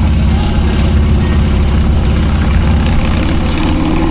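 Harley-Davidson V-twin motorcycle engine running steadily under way, with a low, even exhaust note.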